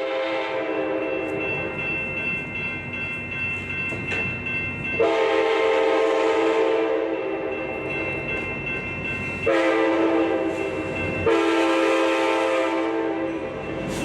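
A train horn sounding a sustained chord of several notes over the rumble and rattle of a passing train. The horn swells into louder blasts three times: once about a third of the way in, then twice more close together.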